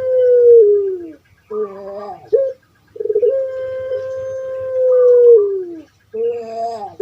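Puter pelung (Barbary dove) calling: two long, steady coos, each held for a couple of seconds and dropping in pitch at its end, and each followed by a short, rough, wavering note.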